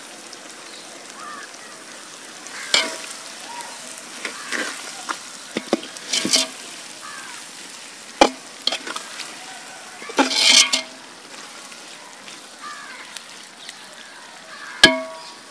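Prawns frying in oil with onions and greens in a large metal pot, giving a steady sizzle. A metal ladle stirs them, knocking and scraping against the pot several times.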